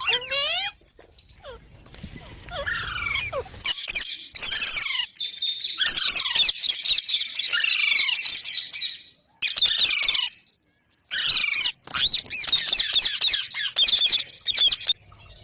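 Ringneck parakeet chattering and squawking in rapid, high, sweeping calls, with a short break about ten seconds in.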